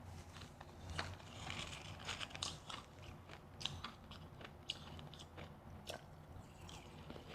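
Close-up chewing of refrozen powdery freezer ice: quick, irregular crunches and crackles from the ice breaking between the teeth, thickest about a second in, then thinning out.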